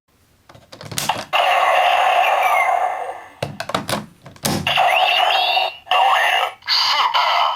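Plastic clicks from a Kamen Rider Fourze Astro Switch toy being worked, and in between, loud electronic sound effects from its small speaker, some with gliding, warbling tones.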